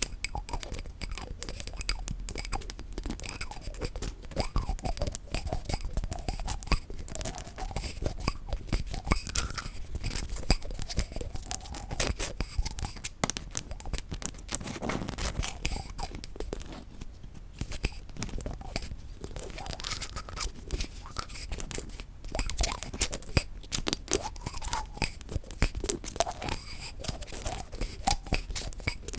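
Rapid tapping and scraping on wooden objects: a dense, continuous run of small clicks and knocks.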